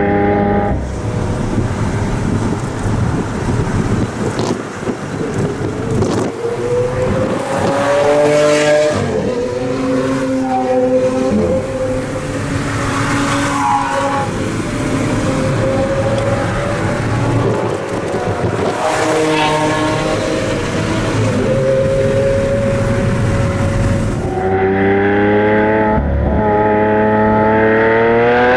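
Lamborghini Aventador LP700-4's V12 engine running through a factory racing exhaust, its pitch rising and falling repeatedly through accelerations and gear changes under a steady rushing noise. Near the end the engine revs up again, its pitch climbing.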